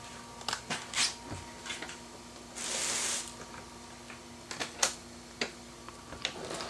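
Movement and handling noise as someone moves about indoors: scattered clicks and knocks, with a brief rustling hiss about three seconds in, over a faint steady hum.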